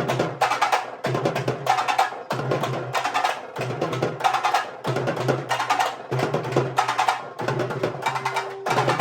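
Urumi melam ensemble playing: urumi drums and accompanying percussion beating a fast, driving rhythm in short repeated phrases.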